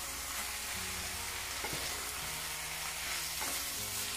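Callaloo with onion and bell pepper sizzling steadily in oil in a frying pan while it is stirred with a wooden spoon, with a couple of light clicks of the spoon against the pan.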